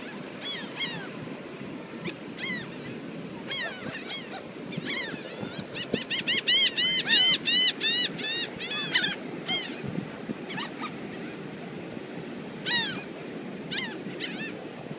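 Seagulls calling: many short, sharp cries, coming thick and fast in a rapid run from about six to nine seconds in, over a steady wash of surf.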